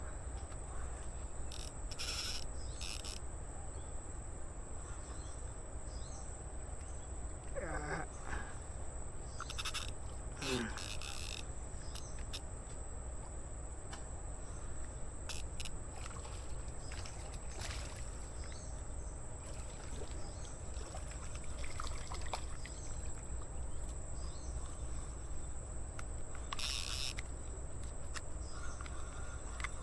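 Outdoor ambience: a steady thin high-pitched insect-like drone over a low rumble, with scattered short clicks and two brief gliding calls about a third of the way in.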